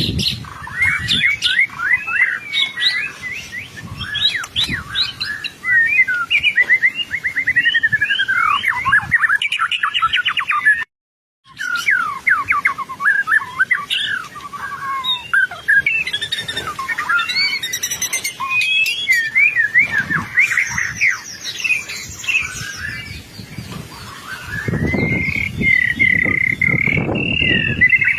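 White-rumped shama singing in full song, a long run of rapid, varied whistled and chattering phrases. The song breaks off abruptly for about half a second around eleven seconds in. Near the end it holds one long steady whistle.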